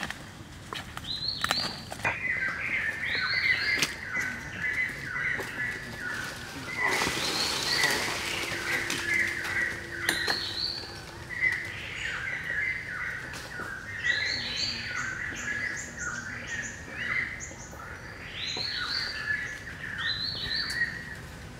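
Forest birds singing, short chirping phrases repeated over and over, some sweeping upward. About seven seconds in comes a second or so of rustling, like dry leaves or brush being pushed through.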